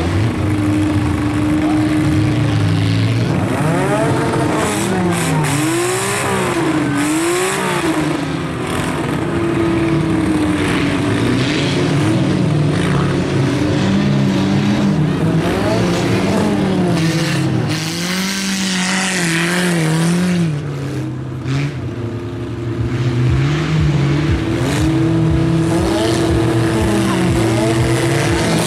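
Engines of several old wreck-race cars running and revving up and down as they drive a dirt track. A steady hum lies under them near the start and again for the last few seconds.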